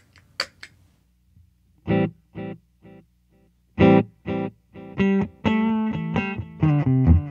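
A couple of sharp clicks of the delay pedal's footswitch being tapped to set the tempo. Then an electric guitar plays through a Boss DD-7 digital delay: a chord struck about two seconds in repeats as echoes about half a second apart, dying away. Another chord with echoes follows, and steady playing takes over from about five seconds in.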